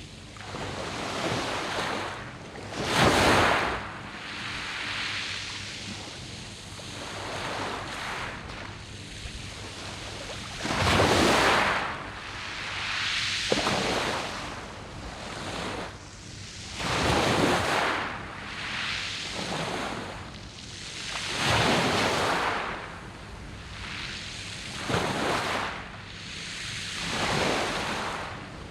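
Sea waves breaking on a beach of round pebbles, surging in and falling away about every four seconds, some breakers louder than others.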